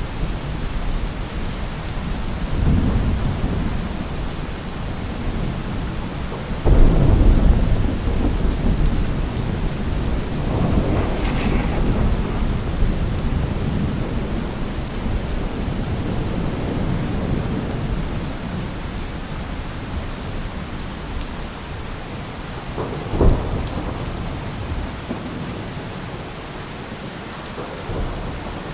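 Thunderstorm: steady heavy rain with rolling thunder. A loud sudden thunderclap about a quarter of the way in, rumbling on for several seconds, another long roll soon after, and a short sharp crack of thunder later, fainter towards the end.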